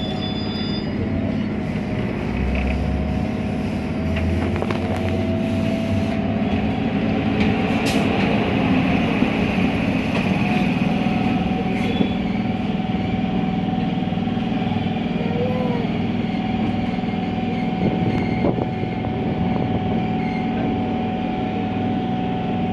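Train running steadily: a continuous rumble with a constant hum.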